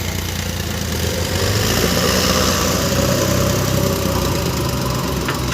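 Heavy diesel engine running steadily, a little louder from about a second in.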